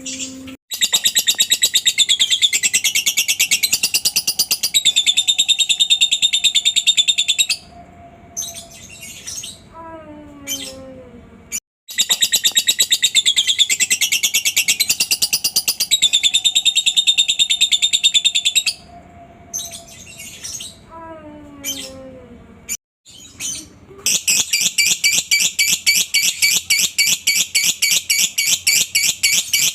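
Lovebird ngekek: long, very fast, high-pitched chattering trills, in three runs of about six or seven seconds each. The runs are split by short pauses holding a few lower falling notes.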